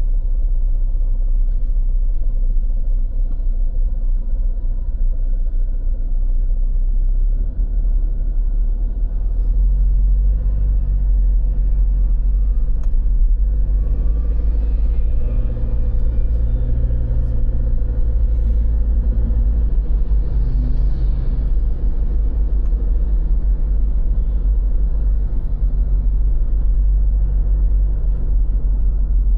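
Steady low rumble of a vehicle in motion, with an engine hum that rises and falls in the middle stretch.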